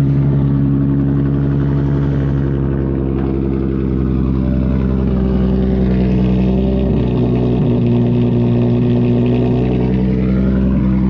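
Nissan 350Z's 3.5-litre V6 idling steadily just after a cold start. It runs through a straight-through exhaust with test pipes in place of the catalytic converters and no resonator or muffler. The idle pitch settles slightly lower about two-thirds of the way in.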